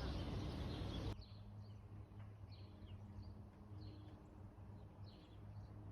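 Faint bird chirps: short falling notes repeated every half to three-quarters of a second over a steady low hum. A louder noisy background cuts off about a second in.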